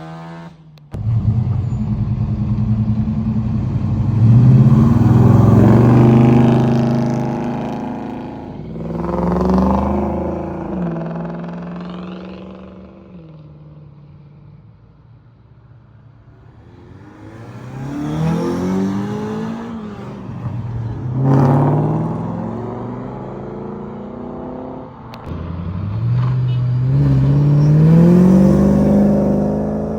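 Cars leaving one after another, each engine revving up with a rising pitch as it accelerates past. There are about five loud passes with a short lull in the middle.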